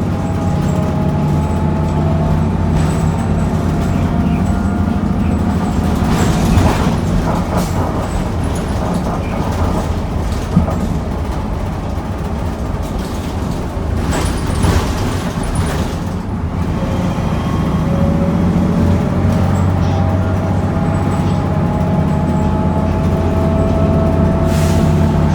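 Onboard a 2009 NABI Metro 45C transit bus under way: the Cummins Westport L9N natural-gas engine and Allison B400R6 automatic transmission running with a steady low hum. A whine climbs slowly in pitch as the bus gathers speed, near the start and again in the second half, and two short hissy noises come about 6 and 14 seconds in.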